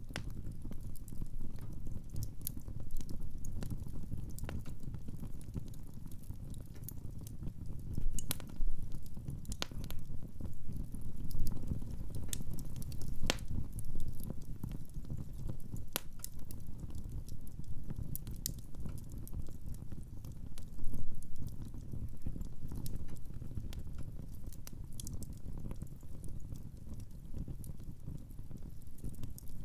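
Wood fire in a fireplace burning with a steady low rumble and irregular sharp crackles and pops of the burning logs, a few of them louder.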